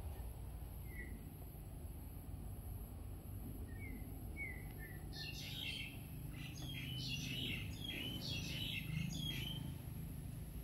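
Small birds chirping: a few faint single chirps, then a quick run of many chirps from about five seconds in until near the end, over a steady low background rumble.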